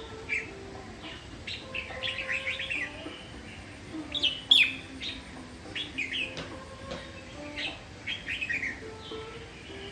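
Red-whiskered bulbul singing: short, quick chirping phrases repeated every second or so, the loudest about halfway through.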